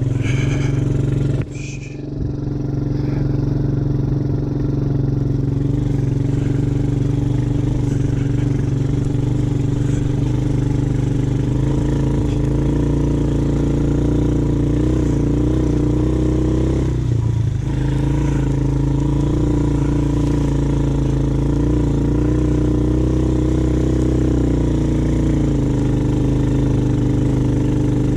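ATV engine running at a steady throttle while riding. It eases off briefly about a second and a half in and again around seventeen seconds, then picks back up.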